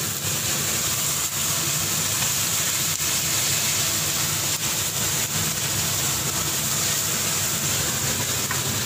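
Beef strips sizzling steadily in a hot wok as they fry in their own released juices and steam, with a spatula stirring them now and then.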